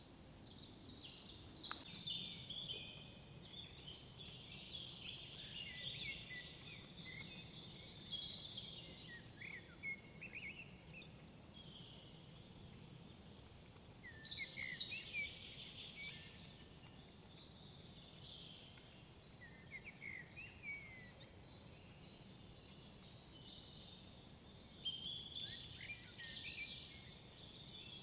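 Several songbirds singing in a forest, their phrases overlapping, with one high song phrase coming back about every six seconds, over a faint low background hush.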